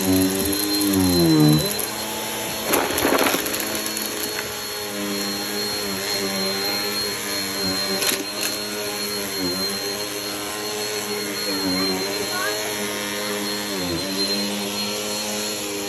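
Vacuum cleaner running steadily over the floor, its motor hum with a high steady whine. The pitch sags and recovers a few times as the vacuum is worked, with a short rattle about three seconds in.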